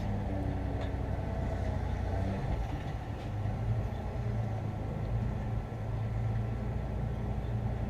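Farm pickup truck's engine running at idle, a steady low hum.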